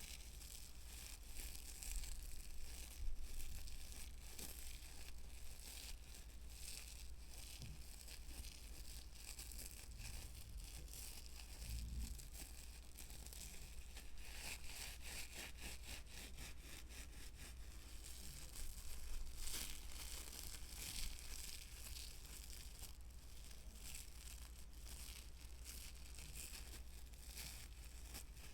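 Close-miked ASMR trigger sounds: fast, fine scratching and crinkly rustling in a near-continuous stream, with a few louder stretches.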